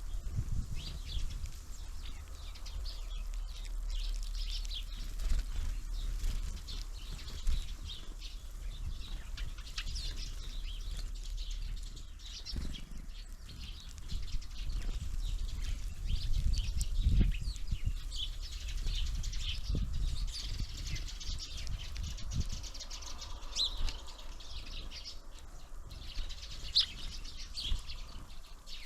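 Small birds at a feeder: fluttering wingbeats as birds come and go, with many short high chirps and calls, over a low rumble.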